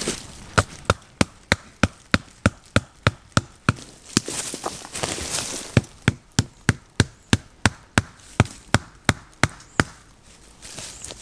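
Repeated sharp blows on wood, about three a second, in two runs of a dozen or so strikes with a short pause and some rustling between.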